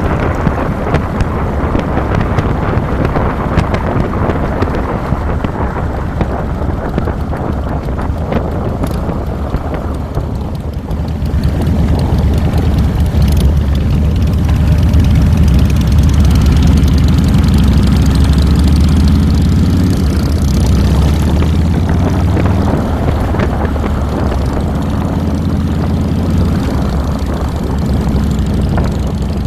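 Harley-Davidson Fat Boy's Twin Cam V-twin engine running while under way, heard from the handlebars with wind rushing over the microphone. About ten seconds in, the wind eases and the engine grows louder, its pitch rising and falling as the speed changes.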